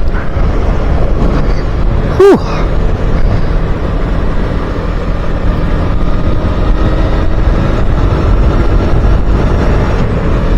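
Motorcycle riding with loud, steady wind buffeting on a helmet-mounted microphone over the bike's engine running. About two seconds in the rider gives a short, loud "whew."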